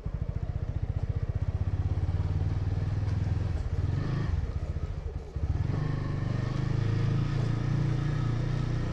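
TVS Apache RTR 200 4V single-cylinder motorcycle engine running with an even, low firing pulse. It drops off briefly about five seconds in, then picks up again.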